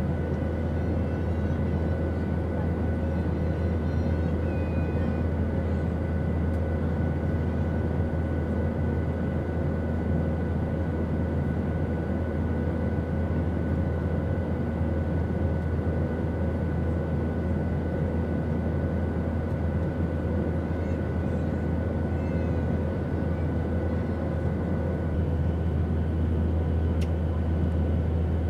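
Airliner cabin noise: a steady, deep engine-and-airflow drone with a few steady whining tones above it, and faint passenger voices mixed in. A higher whine joins near the end.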